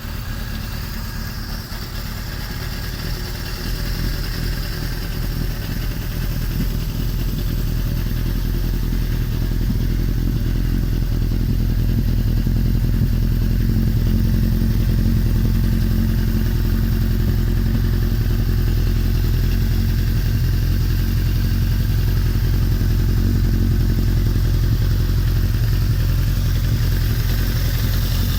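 Suzuki GSX1100S Katana's air-cooled inline-four idling through an Asahina aftermarket exhaust muffler, a steady low exhaust note. It grows louder over the first ten seconds or so, then holds steady.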